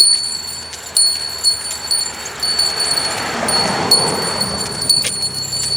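A small bell, such as a bear bell carried on the angler's gear, jingling with each step, struck about once a second and ringing on between strikes. A rushing noise swells and fades in the middle.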